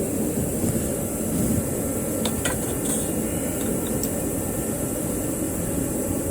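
Steady rushing background noise, with a few light metallic clicks about two and a half seconds in and one more about four seconds in, from tools and parts being handled during suspension work.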